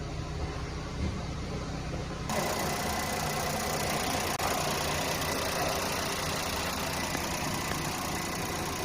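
Mazda Flair Wagon's 660 cc three-cylinder engine idling steadily. About two seconds in the sound changes abruptly, turning brighter and a little louder.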